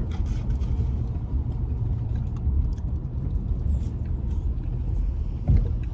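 Steady low rumble of a car heard from inside the cabin, with a few light clicks and a single dull thump about five and a half seconds in.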